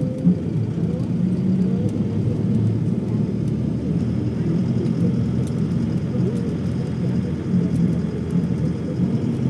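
Steady low vehicle rumble, even throughout.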